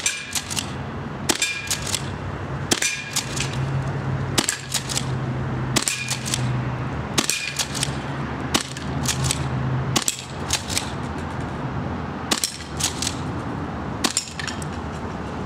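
Airsoft shotgun fired over and over, about one shot every second and a half. Each shot is followed by a quick metallic clatter of BBs striking the targets, with a steady low hum underneath.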